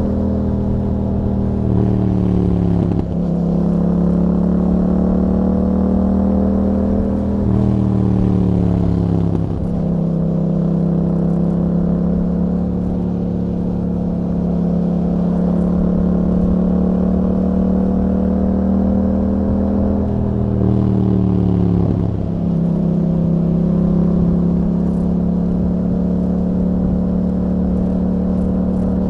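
Yamaha MT-07's parallel-twin engine running through an Akrapovic exhaust with a dB killer, holding a steady note for long stretches. Three times, about 2, 8 and 20 seconds in, the pitch falls off and dips briefly before coming back up.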